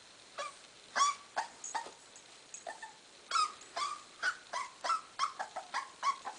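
A young puppy whimpering and yipping in a quick, irregular run of short, high cries.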